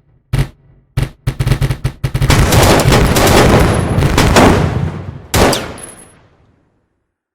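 Gunfire sound effect: a few single shots, then rapid shots running into a dense, sustained stretch of automatic fire, one last blast near the end, then a fading echo.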